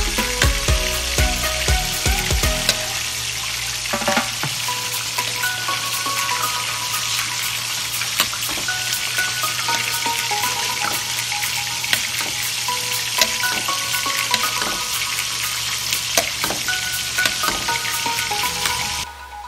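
Chicken wings sizzling steadily in a pan of thick dark sauce while a spoon stirs and ladles the sauce over them, with light clicks of the spoon. A background music tune plays along.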